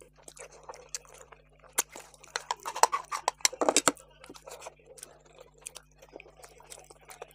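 Close-miked eating sounds: a person chewing mouthfuls of rice and curry with wet mouth clicks and smacks, busiest and loudest from about two to four seconds in.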